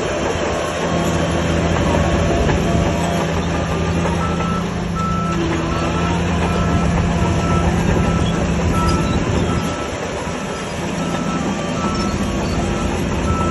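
Heavy earthmoving machine's diesel engine running under load, with a reversing alarm beeping at an even pace from about four seconds in.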